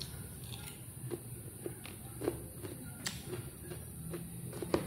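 Chewing a mouthful of lettuce salad with the mouth closed: soft, scattered crunching and wet mouth clicks, with a couple of sharp clicks of a metal fork against the plate, the sharpest near the end.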